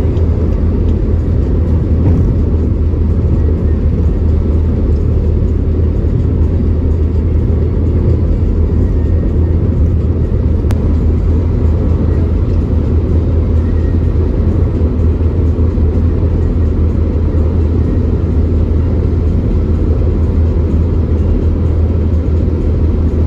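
Car driving on the road, a steady low rumble of engine and tyre noise.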